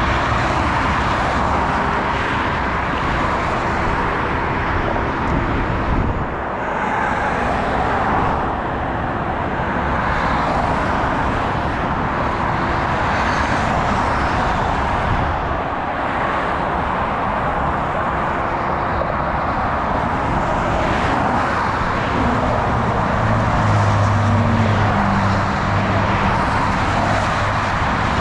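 Steady freeway traffic noise, with vehicles passing by. A low engine hum grows stronger and rises slightly in pitch near the end.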